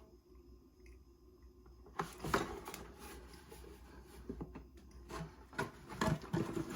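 Handling of a plastic model kit and its box: low room hum, then a scattering of light clicks and knocks from about two seconds in.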